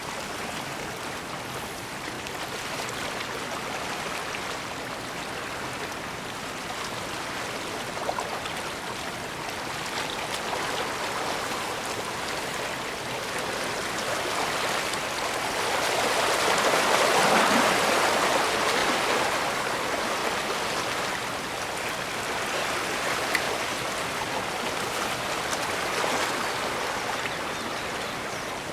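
Water of the bay washing and sloshing, a swell building to its loudest about halfway through and then easing off.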